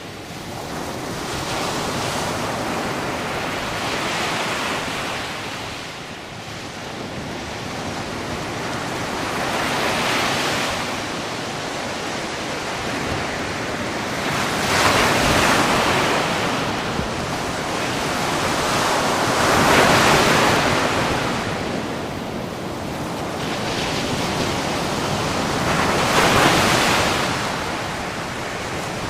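Sea waves breaking on a shore, a steady wash that swells and recedes with each wave, peaking every five seconds or so.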